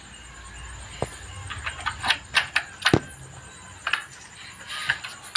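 Irregular light clicks and metallic clinks of a wire birdcage being handled and opened, with two sharper knocks about a second and three seconds in.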